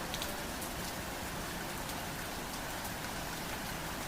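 Steady rain falling, with scattered sharper drop ticks standing out from the even patter.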